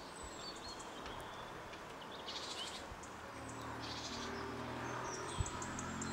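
Small birds chirping in short high bursts over faint outdoor background noise. From about halfway in, a low steady hum joins, and there is one brief low bump near the end.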